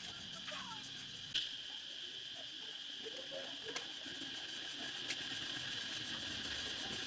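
A steady high-pitched insect-like chorus in the background, with a few sharp clicks and faint short chirps.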